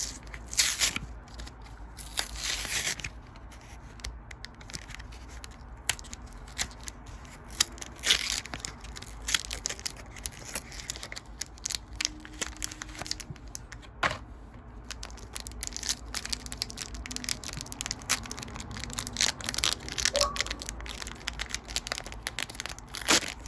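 Foil wrapper of a Pokémon trading card booster pack being torn and crinkled, with a couple of longer tearing rustles near the start, followed by many short clicks and rustles of the cards being handled.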